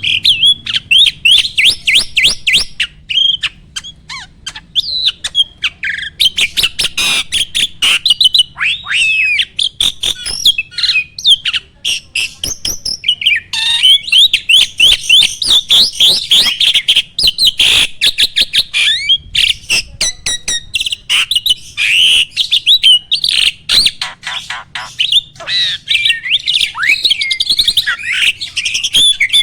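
A jalak (starling) singing without a break: a fast stream of squeaky whistled notes, harsh squawks and sharp clicks.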